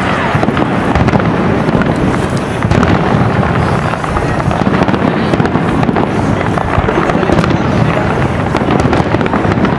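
An aerial fireworks display, with shells bursting in a dense, unbroken run of bangs and crackles.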